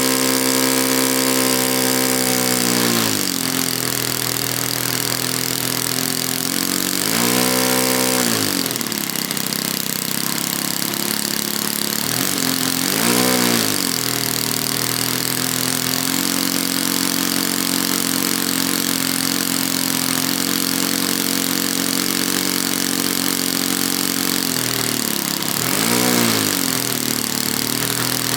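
A 20cc (120-size) four-stroke glow engine on an RC model plane, driving a 15x8 propeller. It runs fast, throttles back to a steady idle a few seconds in, then is blipped up and back down three times: about a quarter of the way in, near the middle, and near the end.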